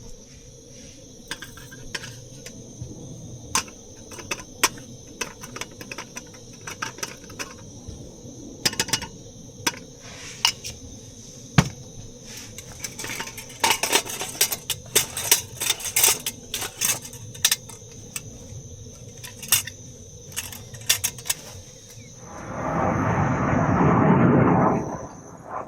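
Metal camp cookware and utensils clinking and knocking together in an irregular run of sharp clinks, followed near the end by a louder rushing noise lasting about two seconds.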